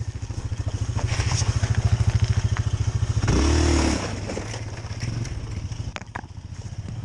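Snowmobile engine running with a fast, even pulse. It grows louder over the first three seconds, surges briefly at about three and a half seconds, then eases off to a lower, steadier run.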